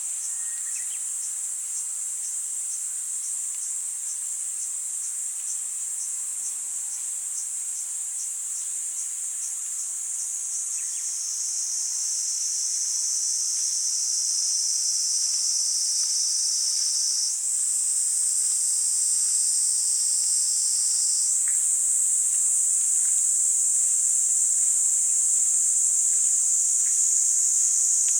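Kaempfer cicadas (niinii-zemi) buzzing in a continuous high-pitched drone. A faint regular ticking, about two or three a second, runs through the first ten seconds, then a second buzz joins about eleven seconds in and the chorus grows louder.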